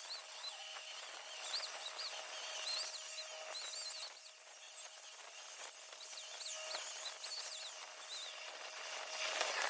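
A pause between short MIG welding stitches: faint bird chirps repeat over a steady low hum. Just before the end comes a brief burst of welding crackle.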